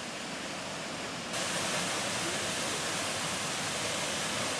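Steady rushing roar of a waterfall, which turns suddenly louder and brighter about a second in.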